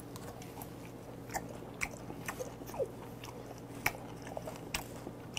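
Mouth chewing raw beef spleen: soft, irregular wet clicks and smacks, picked up close by a clip-on microphone.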